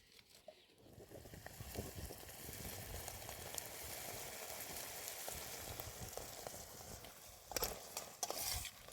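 Food sizzling as it fries in a pan: a steady hiss that builds about a second in, with a few knocks near the end.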